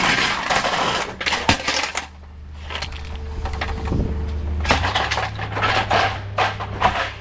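Repeated metallic clattering and knocks, in quick irregular clusters, over a steady low engine hum.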